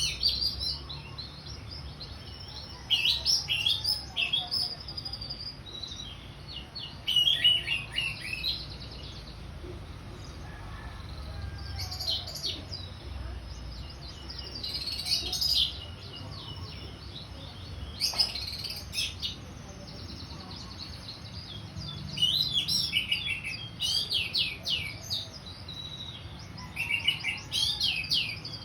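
Orange-headed thrush (anis merah) singing its full song: about seven bursts of fast, varied whistled and trilled phrases, separated by short pauses.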